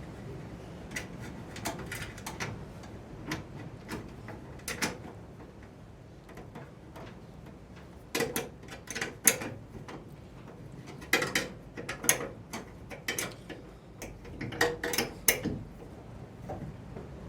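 Hand tools clicking and tapping on metal while fitting the front brake lines: irregular clusters of sharp metallic clicks, thickest about halfway through and again near the end.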